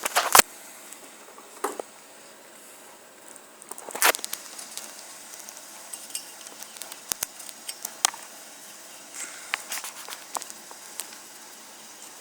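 Scattered small clicks, ticks and rustles of hands handling the plastic recoil-starter parts of a string trimmer while nylon string is threaded through them, with a few sharper clicks at the start and about four seconds in.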